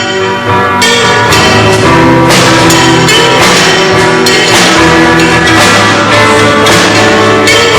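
A rock band playing a song live and loud: drum hits over sustained guitar and bass notes.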